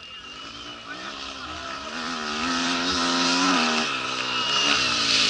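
Off-road rally motorcycle engine approaching and growing steadily louder. Its pitch drops a little past halfway, then the engine keeps running as the noise builds near the end.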